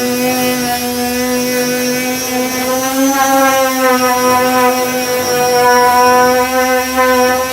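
Power sander with a 240-grit disc running steadily on body filler, its motor giving a constant whine whose pitch wavers slightly.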